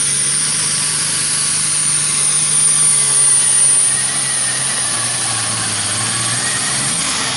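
Turbocharged super stock pulling tractor engine at full throttle under heavy load, with a piercing high whine over the engine's note. The engine pitch sags as the sled bogs it down in the second half, and the engine backs off right at the end as the pull finishes.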